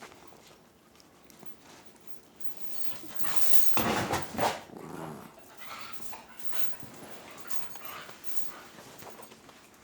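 A small dog vocalising, with one loud wavering stretch of under a second about four seconds in, then softer sounds.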